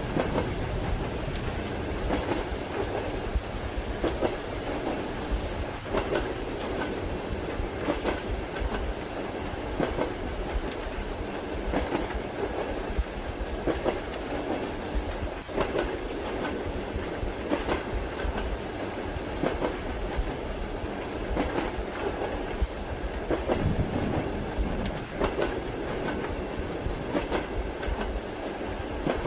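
Train carriage heard from inside the compartment: a steady low rumble of the running gear with the wheels clacking over rail joints about every two seconds, under a soft hiss of rain.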